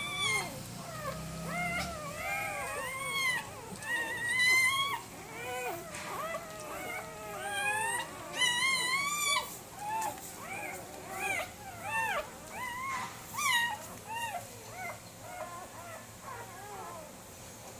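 A litter of German Shepherd puppies whining and yelping, many short high cries rising and falling over one another, thinning out near the end.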